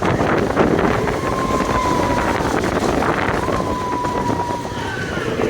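Slinky Dog Dash roller coaster in motion, heard from a rider's seat: wind rushing over the microphone and the train rattling along the track. A thin, slightly falling whine, about a second long, comes twice.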